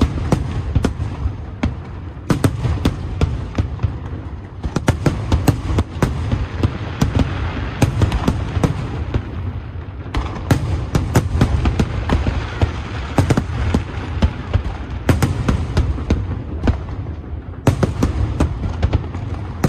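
Large fireworks display: a continuous barrage of shells bursting in rapid, irregular bangs and sharp cracks over a steady low rumble, thickening into denser volleys at times.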